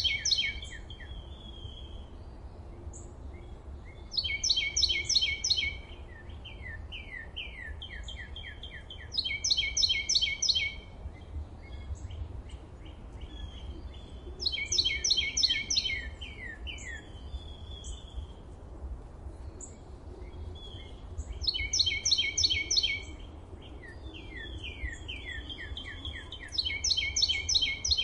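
A songbird singing the same short phrase again and again, a quick run of high notes lasting about two seconds and coming roughly every five seconds. A steady low rumble of background noise runs underneath.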